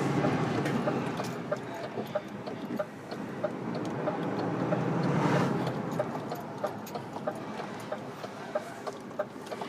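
Lorry engine running as the truck pulls away, swelling twice, with a regular ticking at two to three ticks a second over it.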